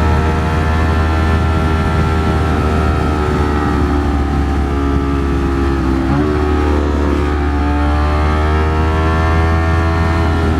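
Ducati Streetfighter V4 S's V4 engine running at cruising speed, heard over heavy wind noise. The engine note sags gradually to about six seconds in, then climbs back as the throttle is opened again.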